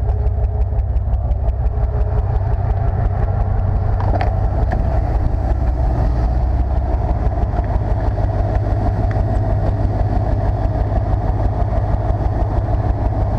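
A 1995 Chevrolet C/K 1500 pickup's engine idling steadily, with a small click about four seconds in.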